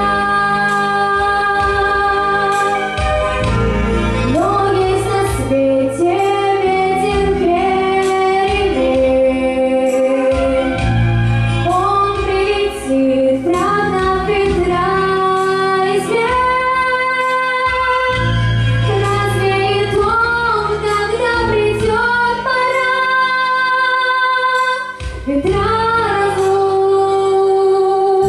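A girl singing a slow song with long held notes over a recorded instrumental backing track.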